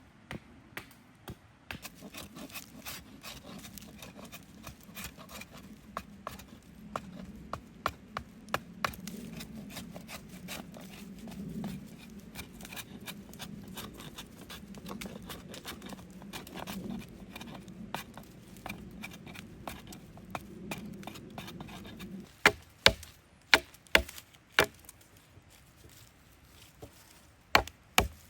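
Chopping on wood: a run of six or so sharp, loud knocks about two-thirds of the way through, and a few more near the end. Before them comes a long stretch of dense small crackles and clicks.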